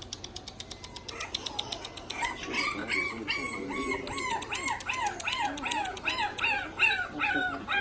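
Several bulldog puppies whining and yelping over one another: many short, arched cries overlapping, starting about two seconds in. Before them comes a fast run of light, high clicks.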